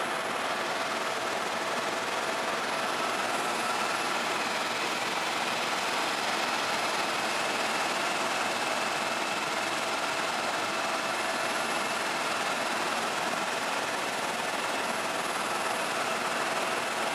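Tour helicopter in flight: a steady, unbroken engine and rotor noise with a faint high whine running through it.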